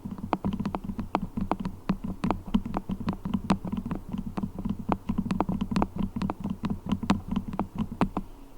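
Quick, irregular tapping and sticky clicking on beeswax, several clicks a second, over a low steady hum.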